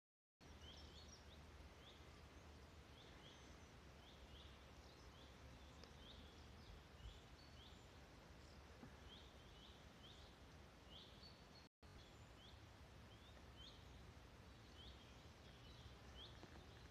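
Faint woodland birdsong: short, high chirps repeated two or three times a second in clusters over a low, even background hiss. The sound cuts out for an instant about two-thirds of the way through.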